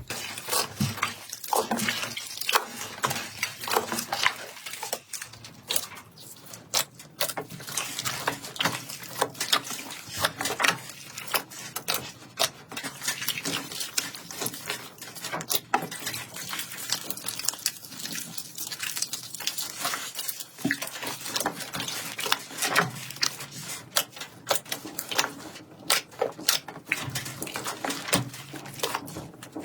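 Slime being pressed, stretched and squeezed by hand, making a dense, irregular run of sticky clicks, pops and squishes.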